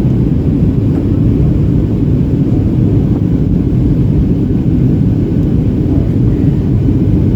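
Steady low rumble of engine and airflow noise inside the cabin of a Boeing 737-800, powered by CFM56-7B engines, with no change in level or pitch.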